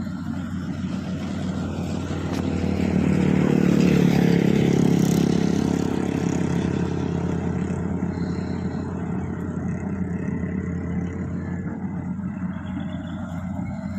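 Motor vehicle engine running steadily, with a louder vehicle engine passing close by. It swells to a peak about four seconds in and then fades.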